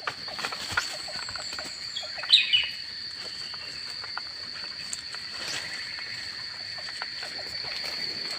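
A bird gives a short burst of chirping notes about two seconds in, over a steady high insect drone and scattered faint ticks.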